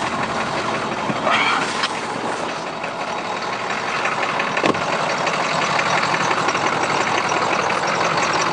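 2007 Ford F250's 6.0L Powerstroke turbo diesel idling steadily just after a cold start in freezing weather, with a short click about halfway through.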